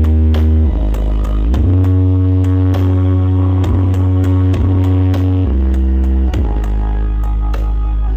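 Loud electronic dance music with deep sustained bass notes and gliding synth tones over a steady beat, played through a huge horeg-style sound system.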